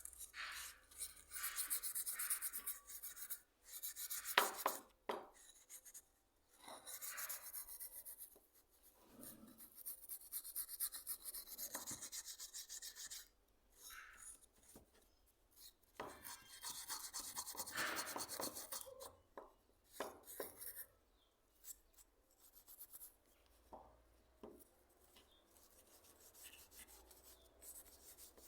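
Hand abrasive work on a hand plane being restored: a series of rasping rub strokes, each a second or two long with short pauses between them, turning to lighter, scattered scratches in the last few seconds.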